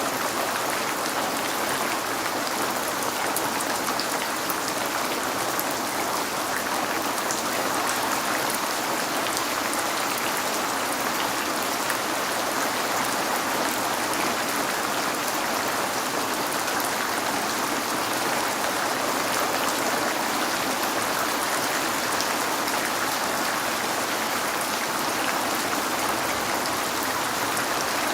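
Steady rain falling on a window, an even hiss of drops with fine patter and no change in intensity.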